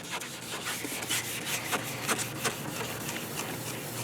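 Hand wet-sanding a plastic headlight lens with a 1000-grit sanding pad: quick back-and-forth rubbing strokes, about two to three a second, levelling the plastic and taking off the oxidation.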